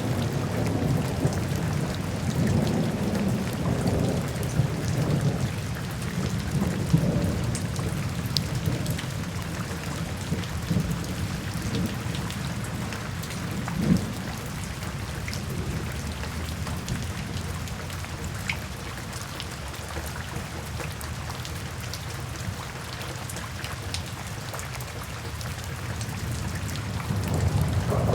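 Steady rain falling with low rolling thunder, the rumble heaviest in the first few seconds, easing through the middle and building again near the end. Occasional sharp crackles from a fireplace come through the rain.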